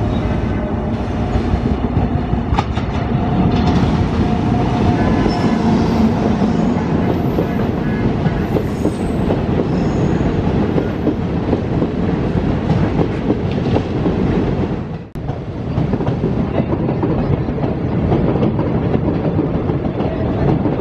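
Indian Railways passenger train hauled by a WAP-7 electric locomotive passing close by, a continuous rumble and rattle of coach wheels on the rails. The sound drops out sharply for a moment about three quarters of the way through, then carries on.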